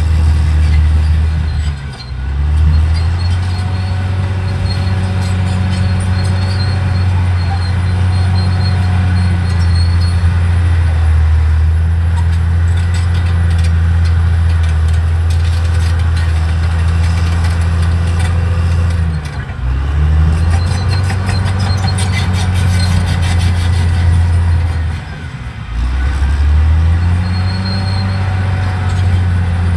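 Caterpillar D6R XL bulldozer's diesel engine running under load with a deep, steady drone. Its pitch and level drop briefly three times, about 2, 19 and 25 seconds in, then climb back.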